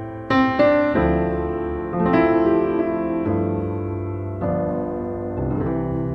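Background piano music: chords and notes sounding and ringing out, changing roughly once a second.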